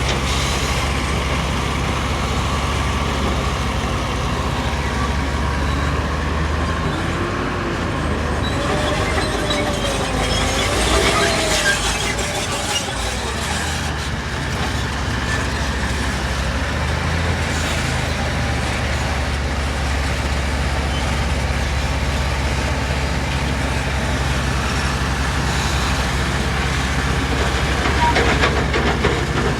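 Heavy diesel earthmoving machinery running steadily under load, with a low engine drone and metal clanks and rattles now and then. A wavering whine comes and goes around ten seconds in.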